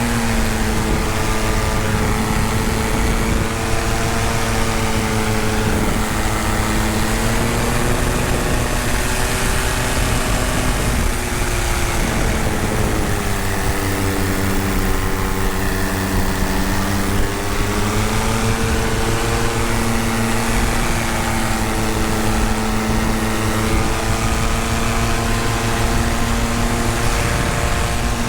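Paramotor trike's engine and propeller droning steadily in flight. The pitch drops a little about twelve seconds in and comes back up a few seconds later.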